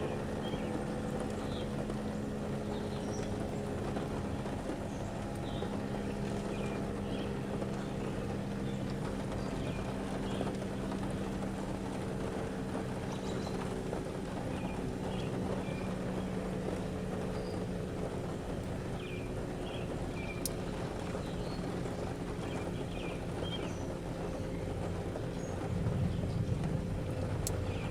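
Distant outdoor tornado warning sirens sounding a steady tone that swells and fades as they rotate, with small birds chirping.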